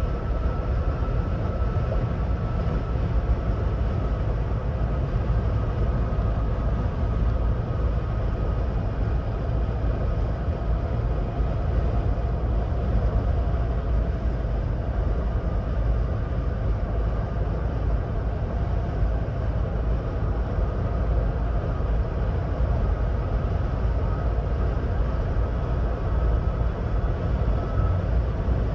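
2026 Ford Bronco Badlands cruising at highway speed: steady road and tyre noise with a low rumble and a faint steady whine.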